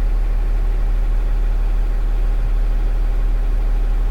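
A 20 ft box truck's engine idling steadily with a low, even hum while the truck sits parked.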